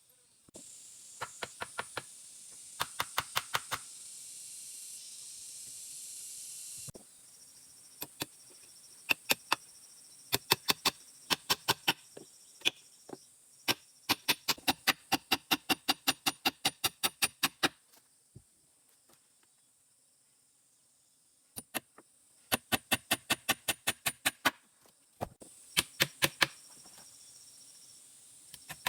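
Quick runs of sharp tool strikes, about four or five a second, in bursts of a few seconds with pauses between. A steady high insect hiss runs behind them.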